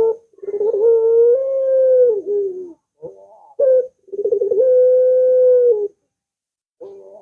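Puter dove (domestic ringneck dove) cooing loudly. It gives two long coos, each opening with a quick wavering stutter and then holding one steady note for about two seconds, with short broken notes between and after them.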